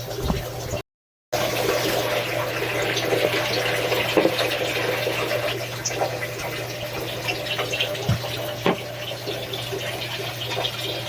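Shower water running steadily and spattering, with a few scattered knocks and splashes. The sound cuts out completely for about half a second, about a second in.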